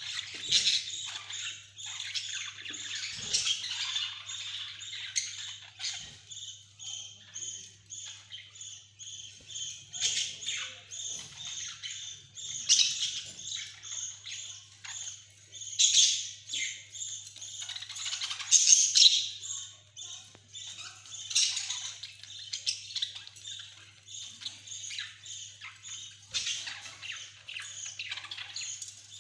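Budgies chattering and chirping continuously, with a rapid run of short repeated warbling notes and louder sharp squawks every few seconds. A faint steady hum sits underneath.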